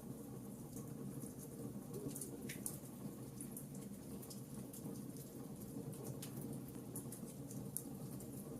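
Wood fire crackling, with irregular small pops and snaps over a low steady rumble of the flames; a couple of sharper snaps stand out, about two and a half and six seconds in.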